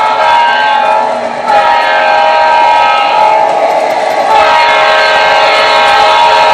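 Air horn of a former Pennsylvania Railroad EMD GP9 diesel locomotive, blowing loud, long blasts with short breaks between them: a brief gap about a second in, and another around three to four seconds in.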